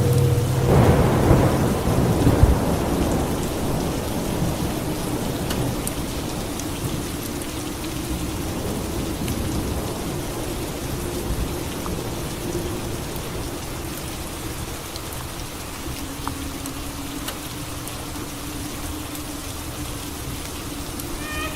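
Steady rain falling, with a rumble of thunder in the first few seconds that slowly fades away.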